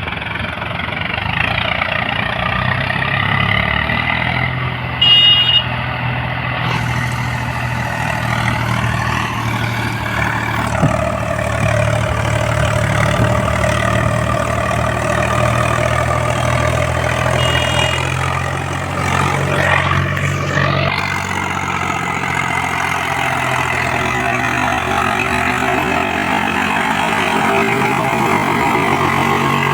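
Old Eicher tractor's diesel engine running steadily under load while pulling a fully loaded trolley. There is a short, loud high beep about five seconds in, and the engine note shifts around twenty seconds in.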